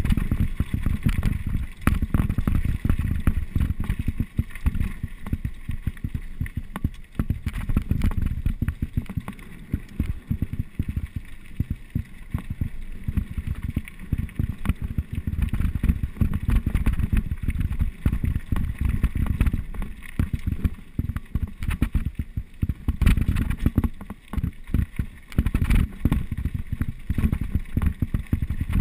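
A mountain bike rolling fast over a rough trail: a constant rattling rumble full of small knocks, with wind buffeting the microphone.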